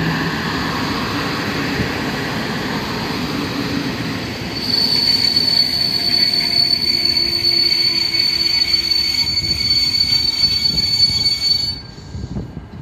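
PKP Intercity passenger coaches rolling slowly past on their wheels, with a high, steady brake squeal from about five seconds in as the train slows. The squeal and the rolling noise cut off suddenly near the end as the train comes to a stop.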